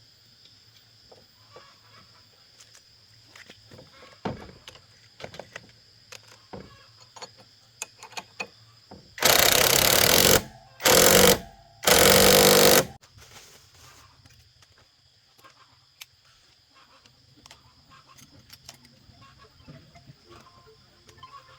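Three short bursts of a loud power tool, each about a second long, about halfway through. Light clicks and knocks of tools being handled come before and after.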